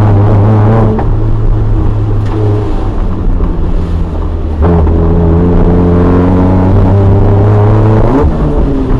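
Toyota AE86 Corolla's 4A-GE four-cylinder engine running hard at fairly steady revs. It gets louder about halfway through and dips briefly in revs near the end.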